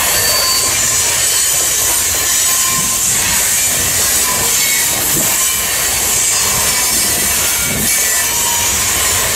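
Covered hopper grain cars of a freight train rolling past, their steel wheels on the rails making a steady, loud rumble and rattle.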